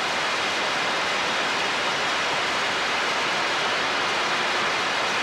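CB radio receiver hissing: steady static on an open channel between transmissions, with no station coming through the noise while skip conditions come and go.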